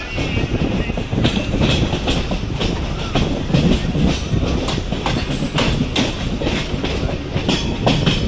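Suburban EMU electric train running at speed, heard from on board: a steady rumble with frequent sharp clicks and clacks from the wheels over the track.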